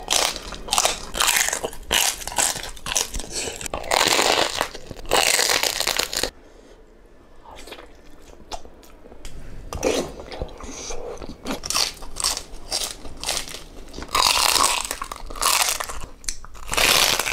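Loud close-up crunching and chewing as crispy pork skin is bitten into and eaten, in bursts. There is a quieter stretch of softer chewing a few seconds in.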